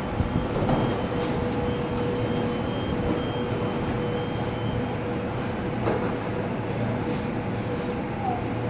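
A train standing at a station platform, its onboard equipment giving a steady hum with one held mid-pitched tone.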